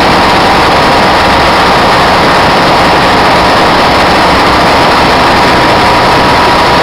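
Diesel engine running steadily at close range: a loud, unbroken din with a steady high whine running through it.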